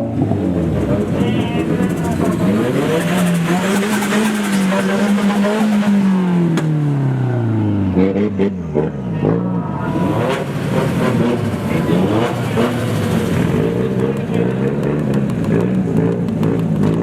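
Drift car engines revving hard. One engine's note climbs, holds high and falls away over several seconds, then several engines overlap, rising and dropping quickly in pitch.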